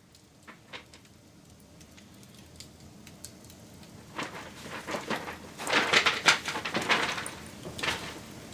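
Wood campfire crackling: scattered single pops at first, then a dense, louder run of crackling from about four seconds in, with one more burst near the end.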